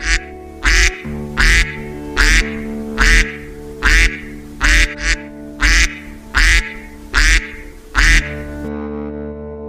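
Domestic duck quacking about a dozen times in a steady series, roughly one quack every 0.8 seconds, stopping near the end, over calm background music.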